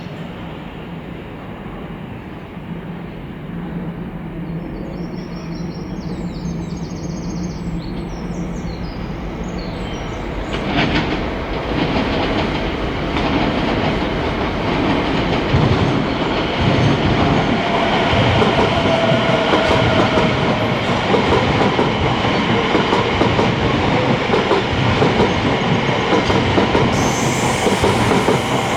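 Two coupled Class 710 electric multiple units running past on the rails: a low hum that swells from about ten seconds in into a loud, steady rumble of wheels on track, with a faint motor whine dipping in pitch partway through and a sharper hiss near the end.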